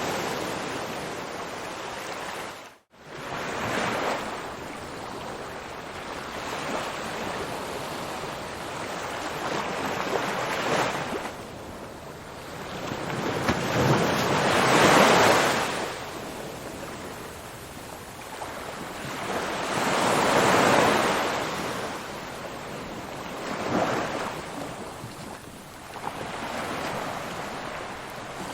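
Ocean surf: waves breaking and washing in, swelling and fading every four to six seconds. The sound cuts out briefly to near silence about three seconds in.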